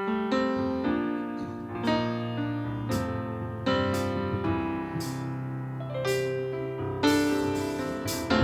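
Keyboard playing slow piano chords, a new chord or note struck about once a second and left to ring.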